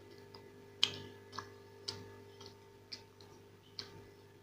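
Close-miked chewing and lip-smacking while eating dosa: a string of short, sharp, wet mouth clicks at irregular intervals, roughly one every half second, over a steady low hum.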